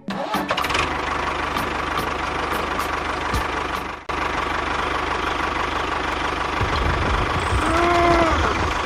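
A small engine running steadily with an even low beat, cutting out for a moment about four seconds in. Near the end a short tone rises and then falls over it.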